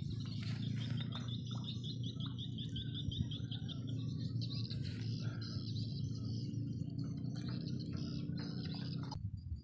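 Birds chirping across the open paddy, with a fast, even trill of high notes in the first three seconds. Under them runs a steady low rumble that stops abruptly just before the end.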